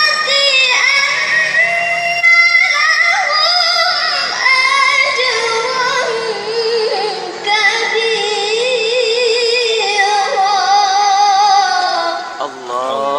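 A child reciting the Qur'an in melodic tilawah style, a high voice holding long ornamented notes with wavering vibrato, broken by a short breath about two seconds in.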